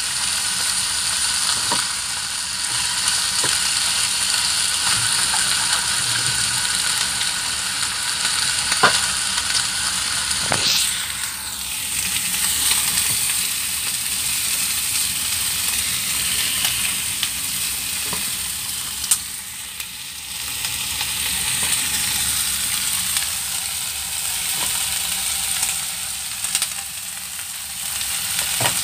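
Chicken wings sizzling as they fry in oil in a nonstick frying pan, a steady hiss, with a few sharp clicks of a spatula against the pan as the pieces are turned.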